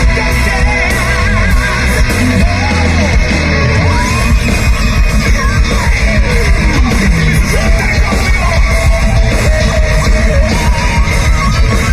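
Heavy metal band playing live: distorted guitars and drums with yelled vocals. A lead line slides and wavers in pitch over the band, and the drumming turns fast and dense about four seconds in.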